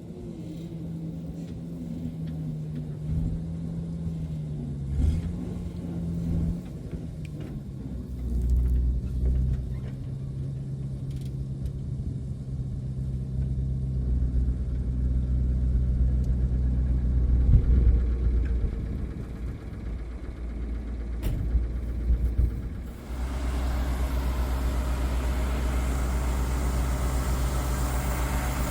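An old farm machine's engine running steadily, its pitch shifting during the first several seconds. About 23 seconds in, a louder, fuller machinery noise joins and holds steady.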